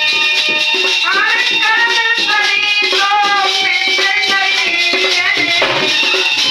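Bhajan music: a steady dholak beat with a high melodic line that slides and arches in pitch from about one second in until shortly before the end.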